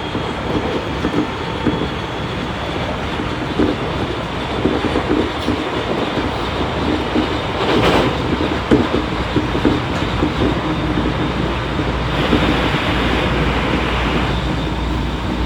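Odakyu 1000 series electric train running at speed, heard from inside motor car DeHa 1018: a steady rolling rumble with wheels clacking over rail joints, and a sharp clatter about eight seconds in.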